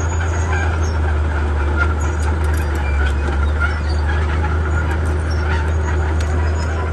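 Komatsu D31P bulldozer's diesel engine running steadily under load, with scattered short clicks and squeaks over the engine.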